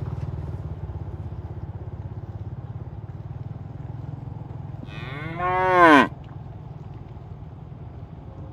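A cow moos once, about five seconds in: a single call that rises and then falls in pitch before cutting off. A low steady rumble runs underneath.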